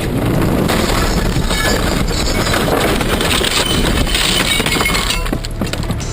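Vehicle crash: a long, loud clatter of breaking and crunching with glass shattering, lasting about five seconds and dying away near the end.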